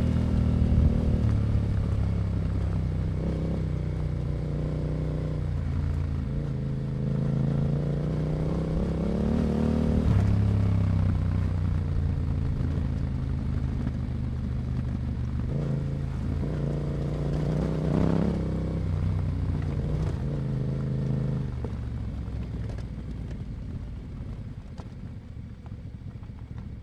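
Yamaha Ténéré 700's 689 cc parallel-twin engine running through an Akrapovic exhaust while being ridden, the revs climbing and dropping with the throttle, with short rises about ten seconds in and again near eighteen seconds. The sound fades away over the last few seconds.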